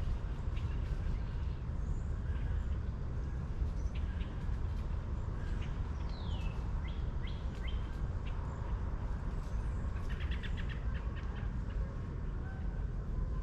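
Birds chirping over a steady low rumble: scattered short chirps, a falling whistled note about six seconds in, and a quick run of repeated notes around ten seconds in.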